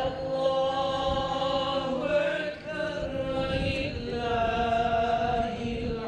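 A man chanting a religious recitation in long, drawn-out, ornamented notes, with a brief break in the voice about two and a half seconds in.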